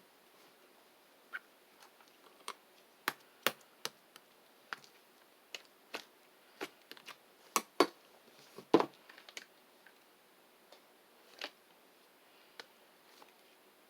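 Irregular soft clicks and taps, as of small objects being handled, with a denser run of louder taps through the middle.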